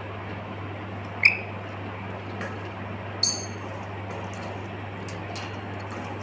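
Pet lory parrot giving two short, sharp chirping calls, about a second in and again about three seconds in, over a steady low hum.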